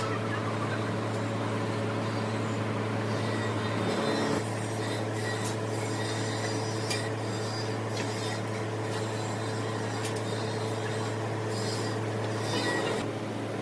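Steady low hum of foundry equipment during a molten iron pour, with scattered sharp crackles and clicks from about five seconds in.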